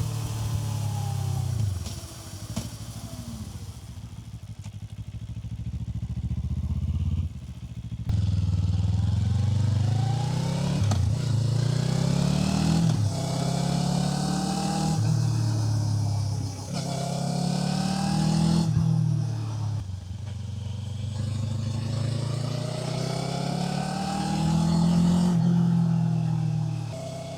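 Kawasaki Z500's parallel-twin engine on the move. It eases off at first, then from about eight seconds in accelerates with the revs climbing and dropping at each upshift, several shifts in quick succession. A longer pull near the end falls away as the throttle closes, with wind noise throughout.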